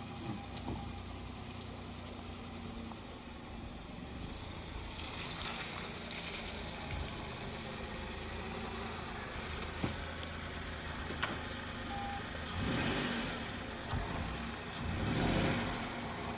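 A car engine idling steadily, with a few light clicks. Near the end come two louder rushing swells.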